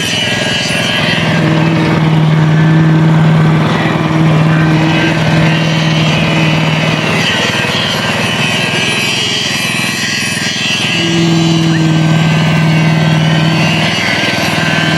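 Small engine-driven site machinery running steadily, with a steady hum that drops out for a few seconds in the middle and again near the end.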